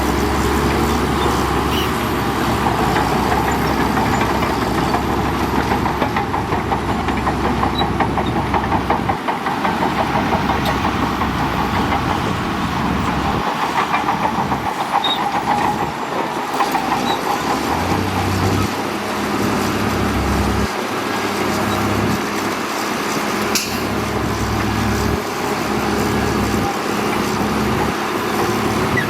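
Heavy diesel earthmoving machinery running steadily at work, its low rumble changing and pulsing several times as the load shifts.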